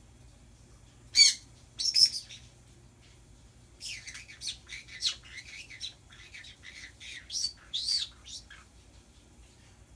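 Pet birds calling: two loud, short screeches about one and two seconds in, then several seconds of rapid high chattering.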